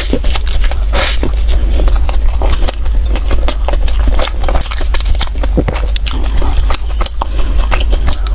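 Close-miked eating sounds: a person chewing and biting food, with many irregular small clicks, crackles and scrapes over a steady low hum.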